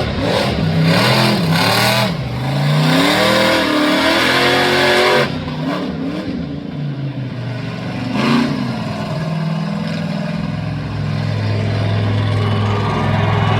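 Monster truck engine revving up and down repeatedly, cutting back about five seconds in, giving one short rev a few seconds later, then settling to a steady low idle.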